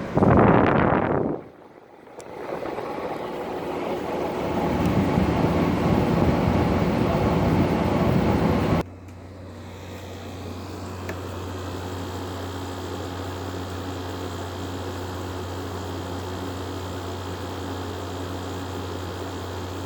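LG 12,000 air conditioner running: loud rushing air noise close to the microphone for the first nine seconds or so, which cuts off abruptly, leaving a steady, quieter low hum from the running unit.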